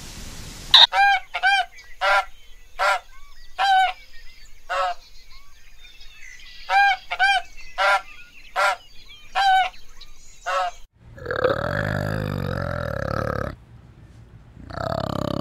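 Domestic geese honking: a run of short, nasal honks, each rising and falling in pitch, in two bouts. Near the end comes a low, drawn-out call from a male orangutan, which pauses briefly and then starts again.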